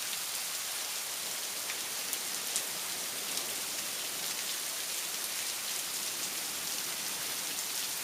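Heavy rain falling steadily, a dense even hiss, with now and then a sharper drop striking a surface.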